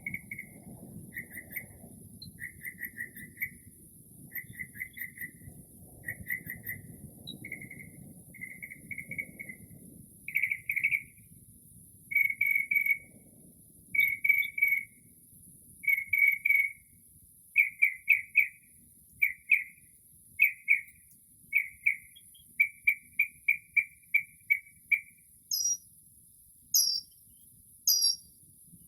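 Northern mockingbird singing, repeating each short phrase several times before switching to the next, as mockingbirds do when running through mimicked calls: first a string of quick chattering notes, then from near the end a series of high down-slurred notes about once a second. Insects chirr steadily and high-pitched behind it.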